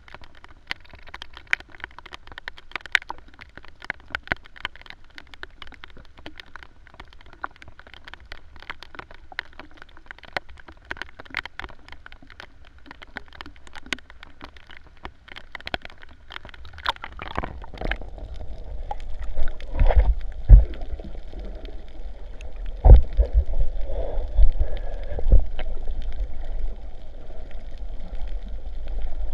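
Rain falling on the sea, a dense crackle of drops hitting the water. About 17 seconds in it gives way to louder, low rumbling water noise with several heavy thumps as water sloshes and splashes against the microphone.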